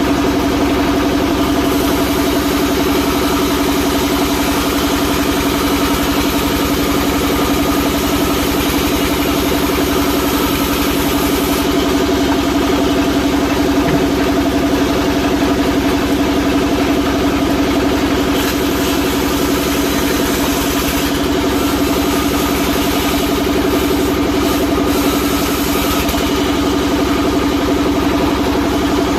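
Sawmill log-cutting machine running steadily with a constant hum and hiss.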